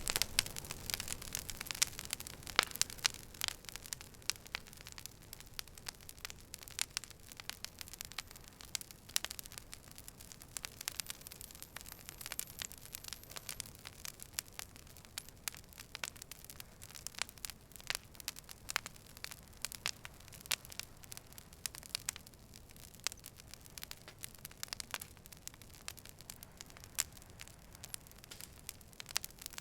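Wood fire crackling: irregular sharp pops and snaps over a low steady hiss, most frequent in the first few seconds.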